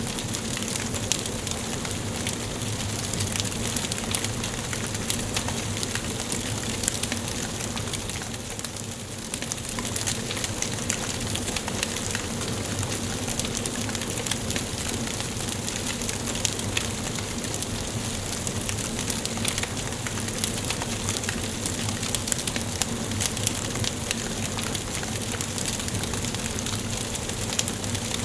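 Wood fire burning in a fireplace, crackling steadily with many small pops and snaps over a soft hiss.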